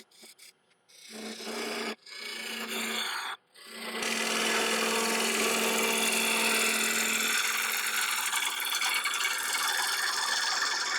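A bowl gouge cutting into a sycamore bowl spinning on a wood lathe at about 1200 RPM, hollowing out the inside. The cutting noise comes in short stretches with abrupt breaks for the first few seconds, then runs on unbroken, with a steady low hum under it until about two-thirds of the way through.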